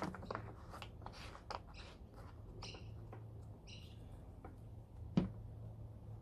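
Electric chainsaw's chain and bar being handled and its tensioning wheel turned: scattered light clicks and scrapes, two short chirps near the middle and a sharp knock about five seconds in.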